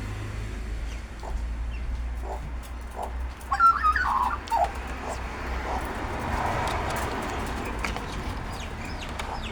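Birds calling, with a cluster of short chirping calls about halfway through and fainter calls later, over scattered light taps.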